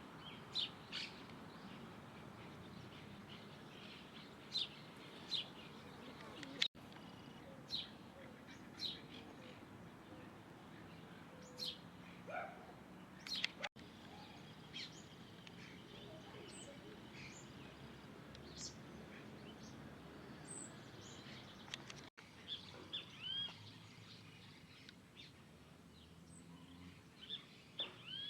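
Small birds chirping: scattered short, high calls, some sweeping downward, a few at a time over a steady low background noise. The sound drops out for an instant three times.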